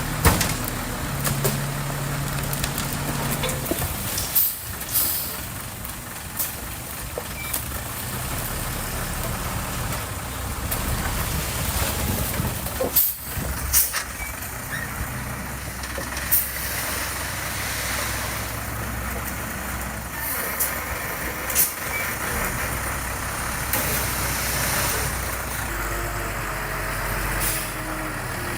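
Heavy construction machinery diesel engines running steadily, with sharp metallic clanks and knocks at several points.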